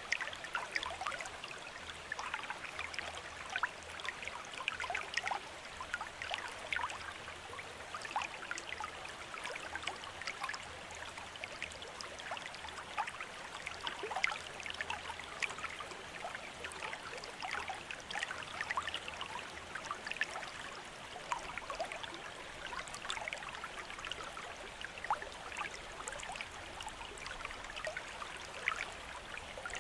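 Bamboo water fountain: a steady trickle of running water with many small splashes and drips.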